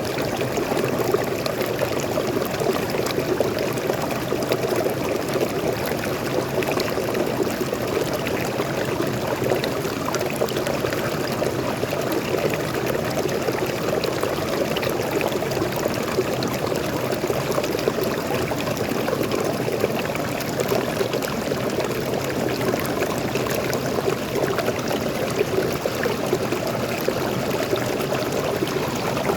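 Waterfall and stream water flowing and splashing, a steady rushing with no change.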